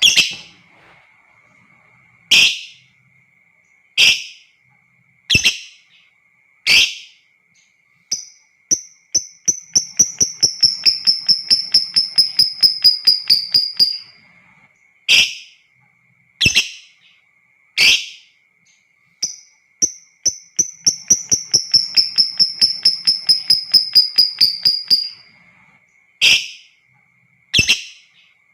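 Lovebird calling: sharp single chirps about every second and a half, twice breaking into a long, rapid chattering trill of about five seconds, the 'ngekek' of a lovebird in full song. A faint steady high tone runs underneath.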